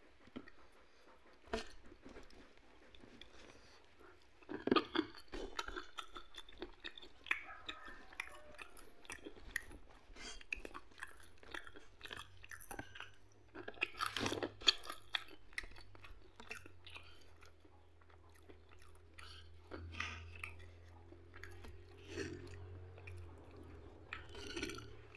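Close-up chewing and crunching of food eaten by hand, with wet mouth sounds and short clicks, and louder crunches about five seconds in and again near the middle.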